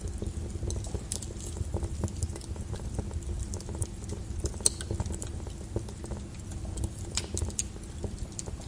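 Lava crackling and clicking irregularly over a steady low rumble, with a few sharper cracks standing out.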